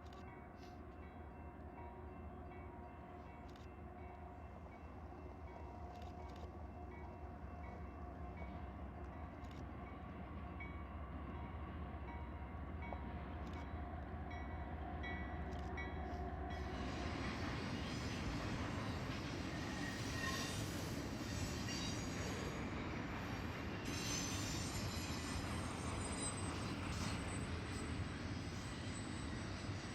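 Diesel freight locomotives approaching on CSX track: a low engine rumble grows steadily louder. About halfway through, wheel and rail noise rises sharply as the train draws close.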